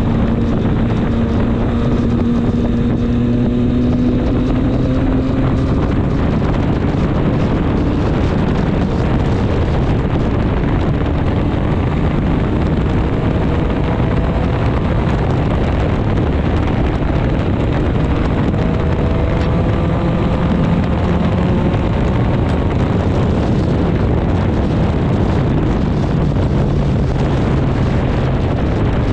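Triumph Street Triple 765 S's inline three-cylinder engine under way, its note rising slowly several times as the bike pulls through the gears, under heavy wind rush on the microphone.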